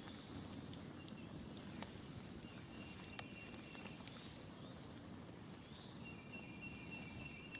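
Smoldering campfire crackling faintly, with a few sharp pops. A steady high trill sounds twice, about two and a half seconds in and again near the end, and there are faint short chirps over a low, steady outdoor background.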